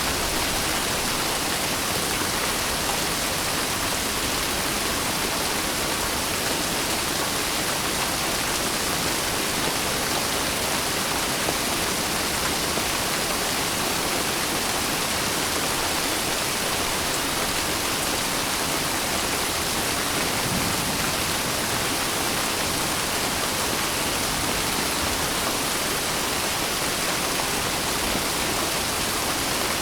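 Steady heavy rain, a dense even hiss of falling water.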